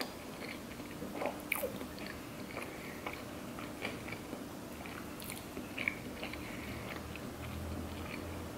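Close-up chewing of a mouthful of sushi roll: irregular small wet mouth clicks and ticks over a faint steady hum.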